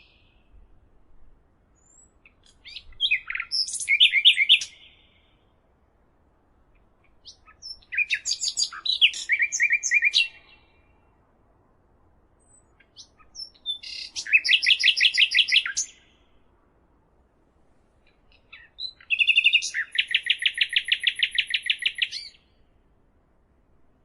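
A songbird singing four separate phrases a few seconds apart, each a short run of varied high notes that ends in a fast trill.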